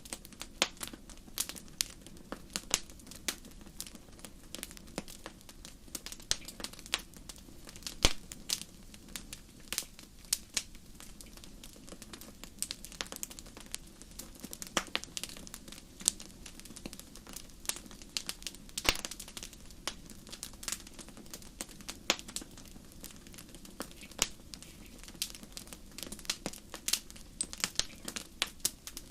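Wood fire in a fireplace crackling: many sharp irregular pops and snaps over a low steady rumble of the burning fire.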